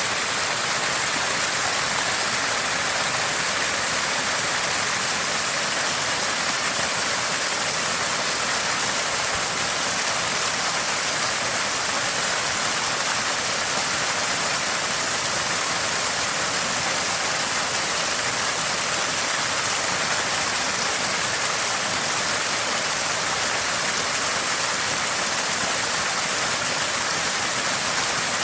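Water gushing from a small spring, a steady, constant gurgling rush that does not change.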